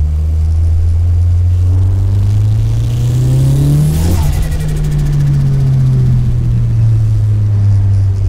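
Nissan S15 Silvia's 400 hp turbocharged SR-series four-cylinder, heard from inside the cabin, revving up under acceleration. About four seconds in, a short rush of noise comes as the revs peak, and the engine note then falls away slowly.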